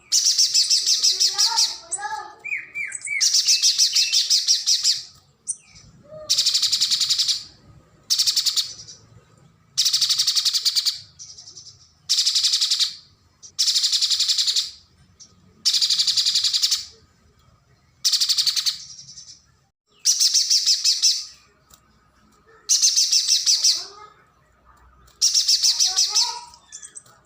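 Pijantung gunung spiderhunter calling: high, rapid trilled bursts about a second long, repeated every two seconds or so. A few lower chirping notes come in between, shortly after the start and again near the end.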